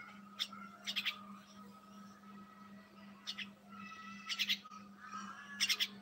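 Caged birds calling in short bursts of rapid, sharp chirps, about five times, over a steady low hum.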